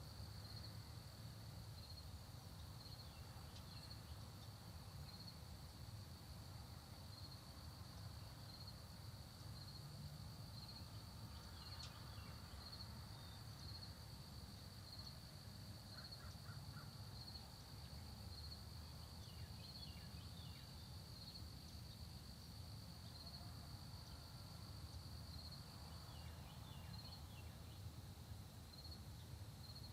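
Faint early-morning countryside ambience: crickets keep up a steady high-pitched trill that breaks up into separate chirps near the end. Scattered faint bird calls come and go over a low rumble.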